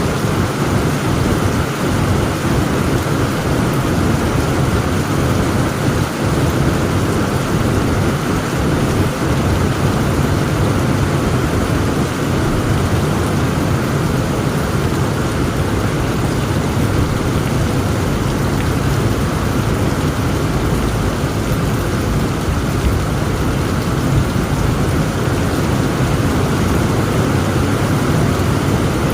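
Heavy rain falling steadily, with a low, continuous rumble of thunder underneath and no sharp cracks.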